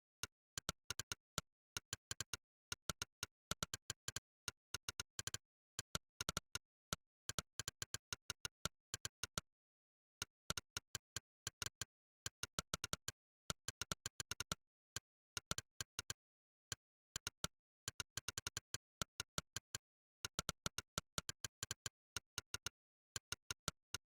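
Monkeytype's synthesized 'click' keypress sound, one short sharp click per keystroke, in fast irregular runs of typing broken by brief pauses, the longest about ten seconds in.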